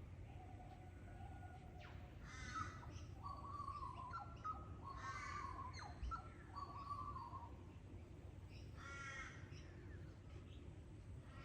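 A crow or raven cawing, three harsh calls a few seconds apart, with another bird giving short whistled notes between the caws.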